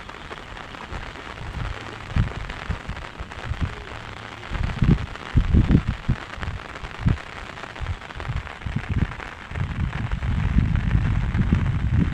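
Steady rain hiss, with irregular low thumps and rumbles, loudest about halfway through and again near the end.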